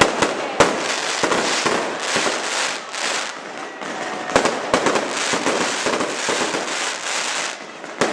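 Fireworks display: a dense, continuous crackle of bursting shells with many sharp bangs throughout.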